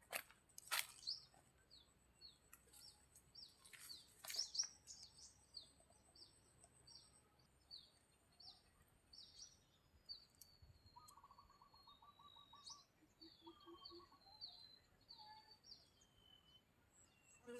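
Faint wild birds chirping, a long run of short, high, falling notes repeated over and over, with a brief lower trill in the middle. A few sharp clicks sound in the first few seconds.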